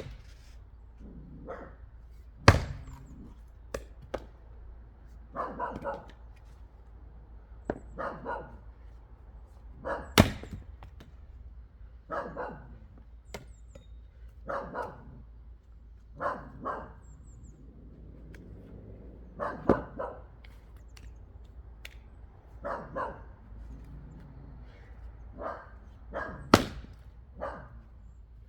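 Axe splitting wood: four sharp, loud chopping strikes several seconds apart, with lighter knocks between them. A dog barks repeatedly, a short bark every two or three seconds.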